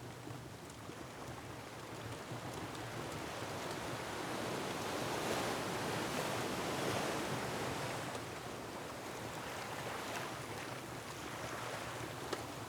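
Ocean surf: a wave swells to its loudest about halfway through, then ebbs, with wind behind it. Scattered crackles from a wood fire sound throughout.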